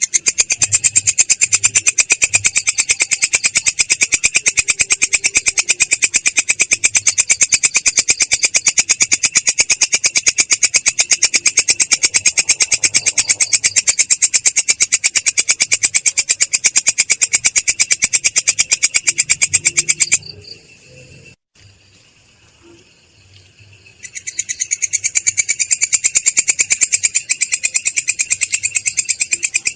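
Masteran training recording of a loud, rapid, evenly pulsed high chirping, many pulses a second. It breaks off about two-thirds of the way in and resumes some four seconds later.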